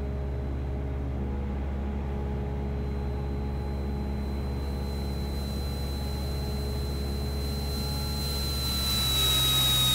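Cessna 172SP's four-cylinder Lycoming engine droning steadily at partial approach power. A thin high whistle comes in about three seconds in and grows stronger, and a hiss rises near the end.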